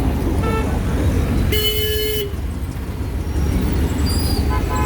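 Vehicle horns honking in street traffic: three short honks, the loudest about a second and a half in, over a steady low rumble of engines and traffic.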